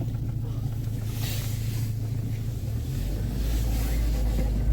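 Creaking of rubber rubbing on metal from a car's front strut top mount as the steering wheel is turned, over the steady low hum of the running engine. This characteristic creak is a sign of worn strut mount bearings.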